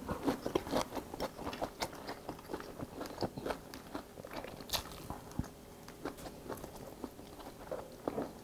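Close-miked eating sounds: a person chewing mouthfuls of rice and stir-fried pork, with irregular light clicks of metal chopsticks and a spoon against ceramic bowls.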